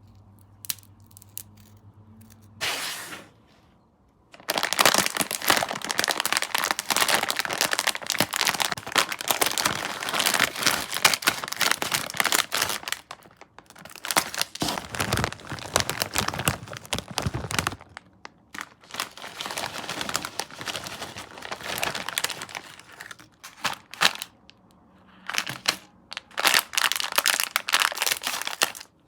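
Plastic sweet packaging crinkling and tearing as it is handled and opened: a dense crackling that pauses briefly a few times.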